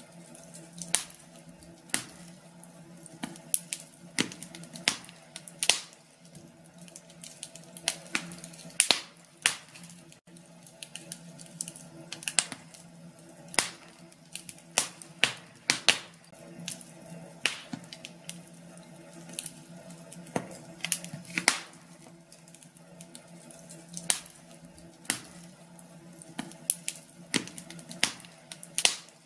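Wood fire in a fireplace crackling, with sharp irregular pops of varying strength, roughly one to three a second, over a low steady hum.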